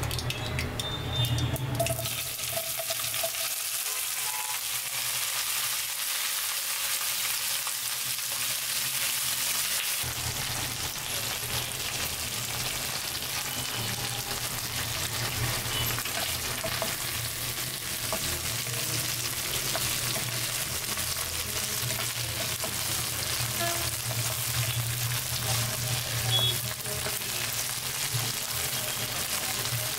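Cut okra frying in oil in a non-stick wok: a steady sizzle, with a spatula stirring the pieces around the pan.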